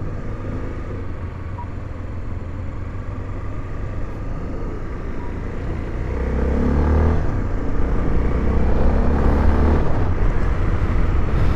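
Honda XRE 300's single-cylinder engine pulling away and accelerating, the note growing louder and rising in pitch about six seconds in.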